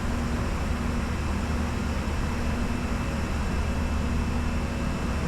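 Steady cockpit noise of a Bombardier Challenger 605 jet in descent: an even rush of airflow and air-conditioning with a low, steady hum underneath.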